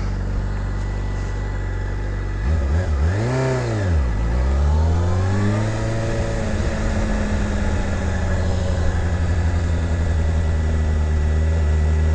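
Motorcycle engine running, revved up and back down once, then rising again and running steadily.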